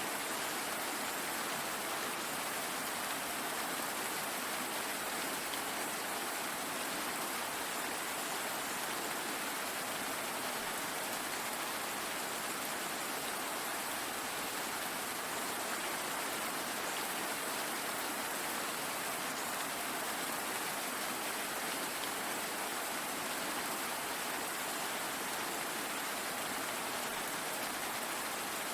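Steady rain falling on a surface, an even hiss of drops with no change in level.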